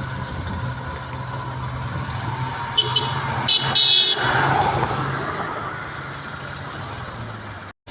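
Truck engine running steadily under load, with a few short horn toots about three to four seconds in. The sound cuts out for a moment near the end.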